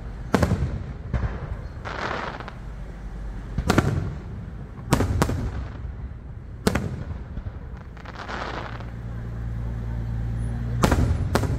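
Aerial firework shells bursting: a series of sharp bangs, about seven, some in quick pairs, with softer noisy swells between them.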